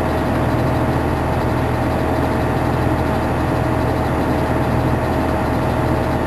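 Fire engine's engine running steadily at an even speed, a low hum with a thin steady whine over it.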